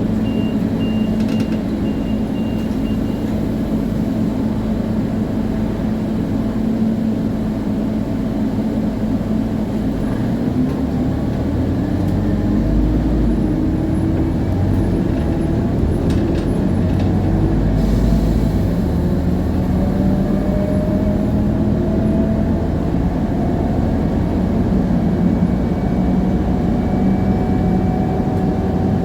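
Scania CN280UA city bus under way, heard on board: the Scania DC9 five-cylinder diesel with its ZF Ecomat automatic gearbox, and from about a third of the way in a whine from the rear axle that rises steadily in pitch as the bus gathers speed. A thin high beep sounds over the first few seconds, and a few clicks come past the middle.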